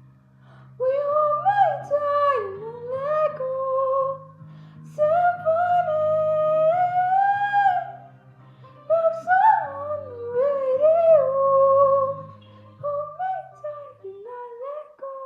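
A high solo voice singing wordless runs, with sliding, ornamented phrases broken by short breaths, over sustained low backing chords, recorded on a phone.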